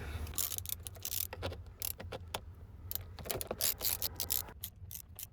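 Irregular small clicks and metallic ticks of a hand screwdriver working the 5.5 mm screws under a pickup's steering column shroud.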